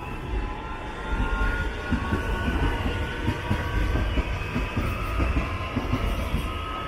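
Red DB Regio electric multiple unit passing at speed, its wheels clacking over rail joints and points, with high whining tones from the train. It gets louder about a second in as the train draws level.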